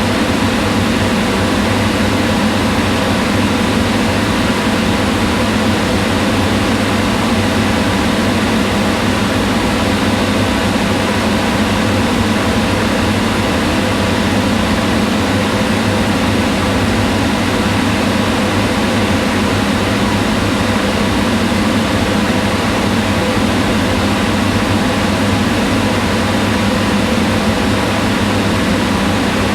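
Kitchen range hood fan running steadily: an even whirring hum with a strong low band and a few faint steady tones.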